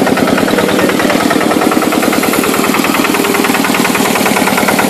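A 1950s marine diesel engine running steadily with a fast, even chugging rhythm while it drives a cane grinder through gears and chains.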